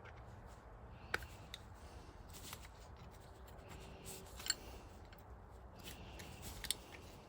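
A metal pick scraping and clicking against the retaining spring clip inside an oil filter housing as it is worked out. There are several sharp light clicks, the loudest about halfway through and near the end.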